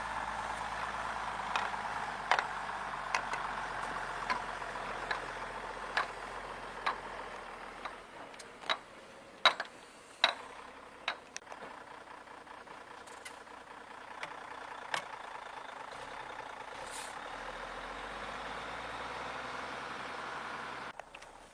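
Heavy wood-processing machine running steadily, with a series of irregular sharp cracks and knocks, the loudest around the middle, then the machine sound cuts off abruptly near the end.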